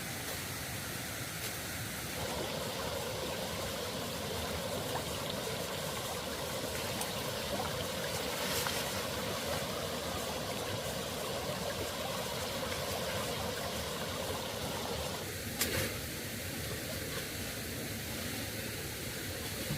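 Steady rushing of running water. A fuller layer of sound comes in about two seconds in and drops away shortly before a single sharp click near the end.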